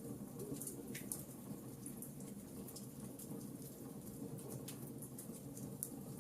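Burning wood logs crackling, with irregular sharp pops, the loudest about a second in and near the end, over a steady low rumble of the fire.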